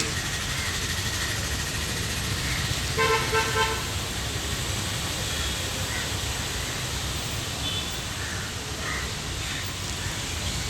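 Steady outdoor background noise, with a short horn-like toot in three quick pulses about three seconds in and a few faint high chirps later on.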